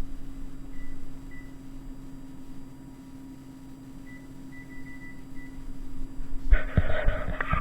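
Oven control panel beeping: several short, high beeps as it is set to bake, over a steady low hum. Near the end comes a loud clatter with several sharp knocks.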